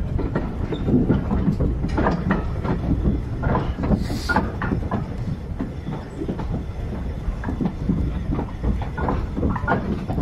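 Train running along the track: wheels clattering and knocking over the rail joints with a continuous low rumble underneath, and a short hiss about four seconds in.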